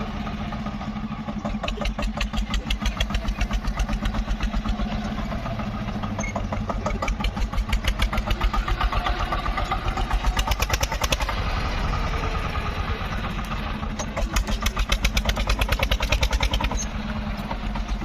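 Tractor diesel engine running with a fast, even knock, swelling louder three times as it is revved to work the tractor-mounted loader.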